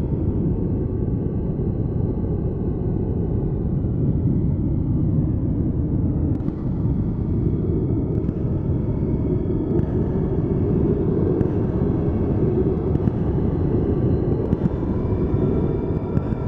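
Steady low rumble of a vehicle running, with a faint even hum and a few light ticks.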